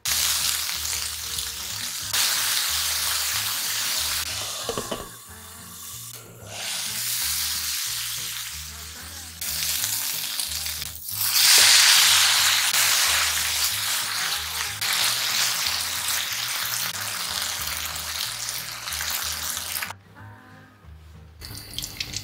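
Pork-wrapped shishito peppers sizzling as they fry in a pan. About halfway through, the sizzle jumps to its loudest as soy sauce is poured into the hot pan for a teriyaki glaze; it cuts off near the end.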